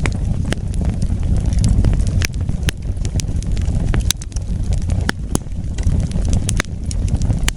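Wood fire burning with a steady low rumble and irregular sharp crackles and pops, about one or two a second.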